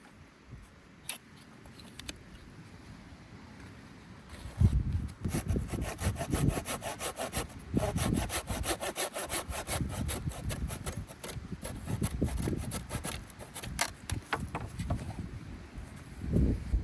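Hand saw cutting through wood in a quick, steady run of back-and-forth strokes. The sawing starts about four and a half seconds in and stops about fifteen seconds in.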